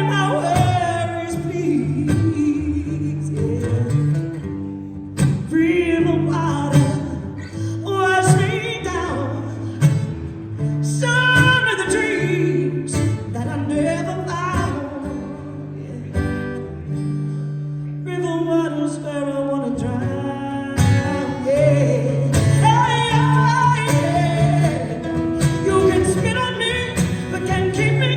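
Live music: guitar accompaniment with a wordless melody line gliding over a steady, repeating bass pattern, a break between the sung verses of a slow song.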